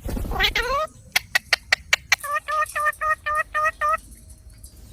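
Pet green parrot calling: one rising call, then a run of sharp clicks, then a quick string of short, even squawks at about five a second.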